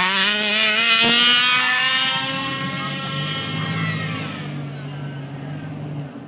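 Two-stroke gas engine of a 1/5-scale HPI Baja RC buggy, a mildly modified O.B.R. motor, rising in pitch as it is throttled up. It then grows steadily quieter over the next few seconds.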